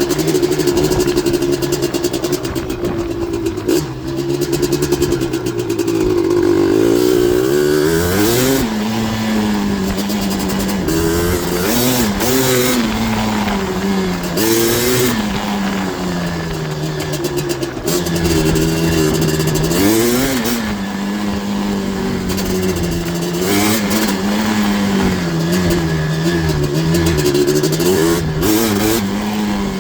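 Big-bore 240cc Yamaha Blaster single-cylinder two-stroke engine with an FMF exhaust under riding load, its pitch climbing sharply and dropping back again and again as the throttle is worked, with steadier stretches between.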